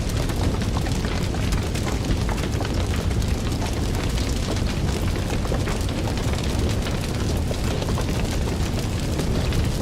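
Wood fire burning, with a steady low rumble of flames and many small, irregular crackles and pops.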